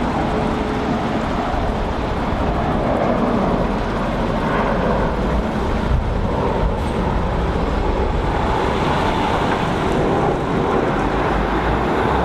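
Steady rumble of an SAS CRJ-900LR regional jet's twin turbofan engines climbing away after takeoff, an even roar without rise or fall.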